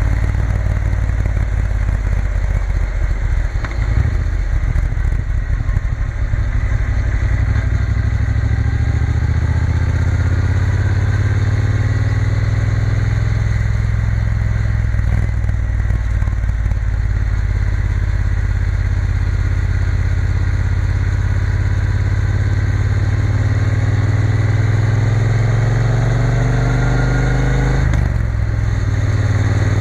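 Triumph Bonneville T120 parallel-twin engine running on the move, its pitch climbing steadily twice as the bike accelerates, with a brief drop about two seconds before the end as it changes gear.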